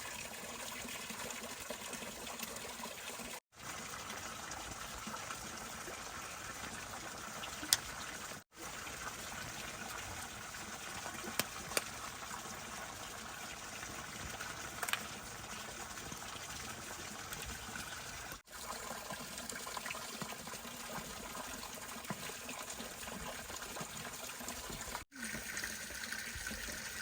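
Water running and trickling steadily, with a few sharp clicks, broken by brief drops in sound at several edits.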